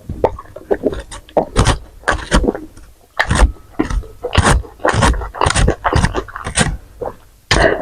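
Close-miked eating: wet chewing and lip smacking, irregular at first, then settling into a steady rhythm of about two chews a second.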